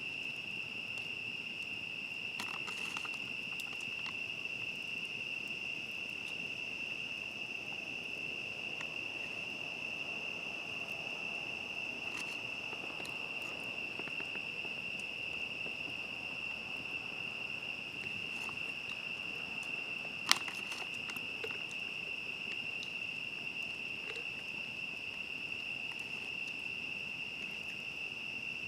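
Steady, high-pitched chorus of crickets, with a campfire crackling now and then underneath: a few soft clicks about two to three seconds in and one sharp, much louder pop about twenty seconds in.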